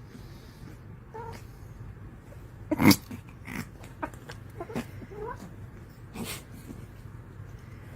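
Domestic cat making short calls, some gliding up or down in pitch, with one loud sudden sound about three seconds in.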